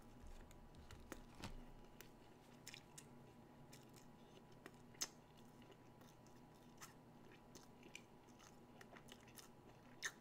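Faint chewing of a mouthful of chicken nugget, with soft mouth clicks scattered throughout and a sharper click about five seconds in and again near the end.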